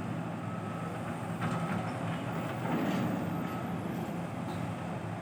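Engine of a heavy piling drill rig running steadily.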